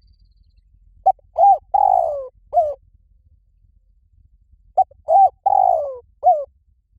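Spotted dove cooing: two four-note phrases, the third note of each longer and falling in pitch.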